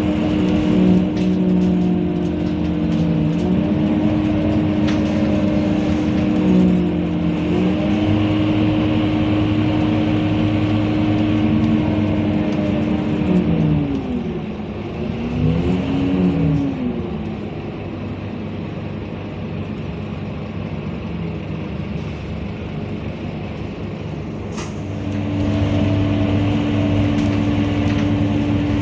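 Scania K230UB single-deck city bus running, with a steady drivetrain whine over the engine note. About halfway through the whine falls away with a couple of gliding tones, the bus goes quieter for several seconds, and near the end the steady note picks up again.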